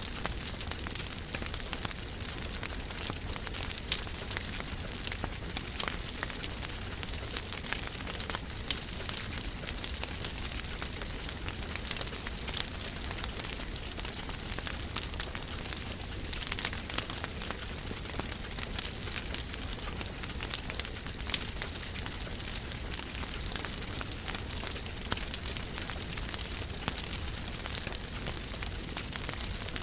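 Wood fire burning in a fireplace: a steady hiss with constant fine crackling and a few sharper pops, the loudest at about 4, 9 and 21 seconds in, over a low rumble.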